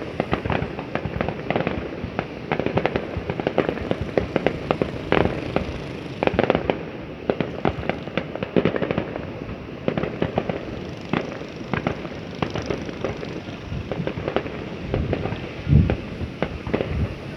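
Many fireworks going off at once in a dense, continuous stream of overlapping bangs and crackles, with one louder, deeper boom near the end.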